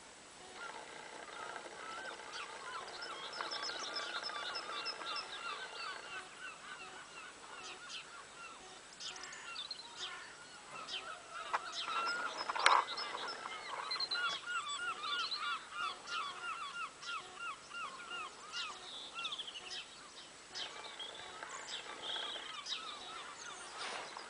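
Several birds calling at once, in long runs of short repeated notes that overlap one another, with one louder, sharper call about halfway through.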